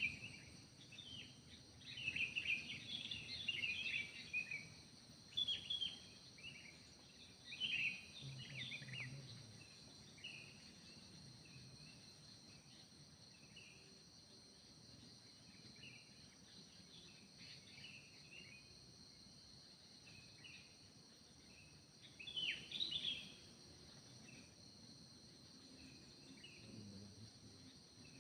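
Wild songbirds in a mountain forest giving short, quick chirping phrases in several clusters over the first half, then a last burst near the end. A steady high-pitched insect drone runs underneath throughout.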